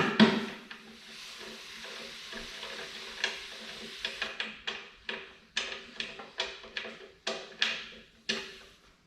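A hammer striking steel, each blow ringing briefly: a quick run of blows at the start, then blows again about one or two a second from about four seconds in. Between them a steady hiss lasts about three seconds and cuts off suddenly.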